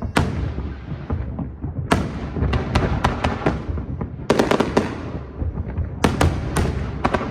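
A fireworks display going off: a constant low rumble of distant bursts, broken by rapid clusters of sharp bangs and crackles that ring out and fade.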